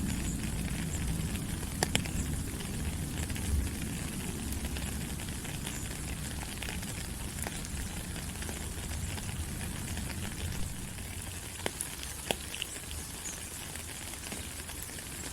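Rain falling on rainforest leaves: a steady hiss of rain dotted with many small drop strikes and a few louder single drips, about two seconds in and again near twelve seconds. A low rumble under it eases off over the first few seconds.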